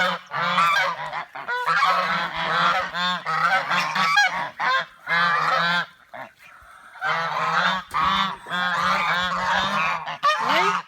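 African geese honking in rapid, repeated calls, with a short pause about six seconds in.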